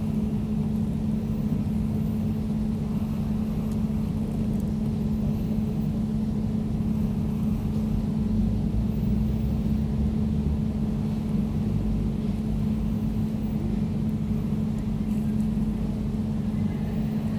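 Air conditioner running steadily: an even low hum with one steady tone, a low rumble under it and a faint airy hiss above.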